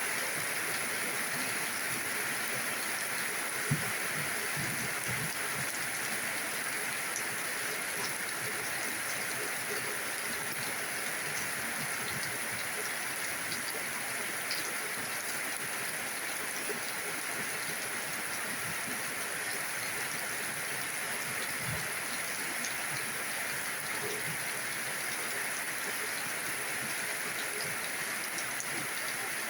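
Steady rain falling, an even hiss with scattered small drop ticks and one sharper tap about four seconds in.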